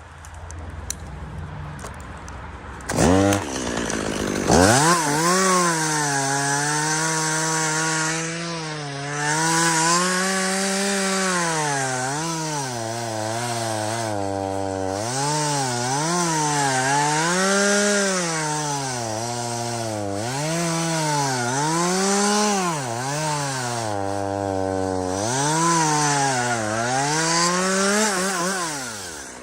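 Chainsaw revving up about three seconds in, then cutting through spruce wood. Its engine pitch sags under load and climbs again, over and over, as the chain bites. It eases off just before the end.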